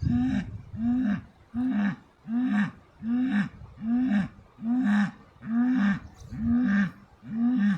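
Cattle calling in a rapid, evenly spaced series of short low calls, about one a second, each rising then dropping slightly in pitch.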